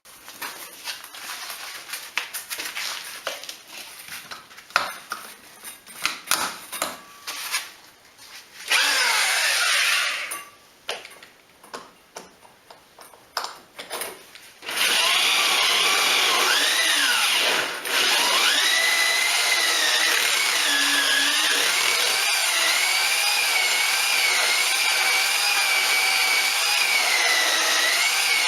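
Electric drill boring a hole through the wall with a core bit (hole saw) for the chimney pipe. It starts with knocks and clatter of handling, then a short run of the drill about nine seconds in, then from about halfway it runs continuously, its pitch wavering up and down as the bit cuts.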